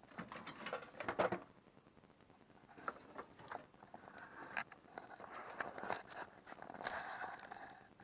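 Scattered mechanical clicks and short rattles of something being handled, loudest about a second in and again in a longer bout in the second half; no engine running.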